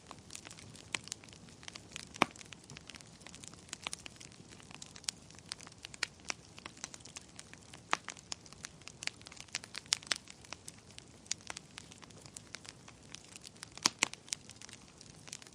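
Wood fire burning in a fireplace: irregular crackles and sharp pops over a soft steady hiss, with louder pops about two seconds in and near the end.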